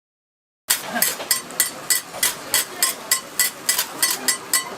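Metal cooking utensil striking metal cookware in a steady rhythm, about three sharp ringing clinks a second, starting just under a second in.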